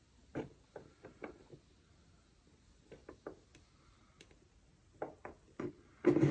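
Light clicks and taps of small hand tools and parts on a metal detector's control housing as a greased knob seal is worked into place, coming in small irregular clusters. A louder sound starts just before the end.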